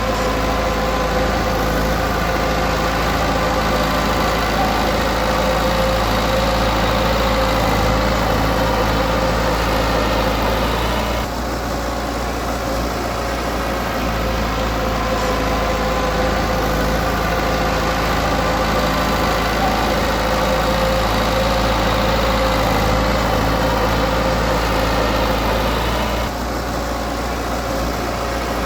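Komatsu D20P bulldozer's diesel engine running steadily, easing off briefly about eleven seconds in and again near the end.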